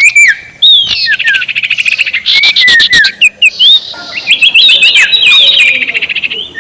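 Sirtu (collared kingfisher) giving its loud cackling 'ngekek' call: fast rattling runs of notes mixed with short downslurred whistles, with several calls overlapping.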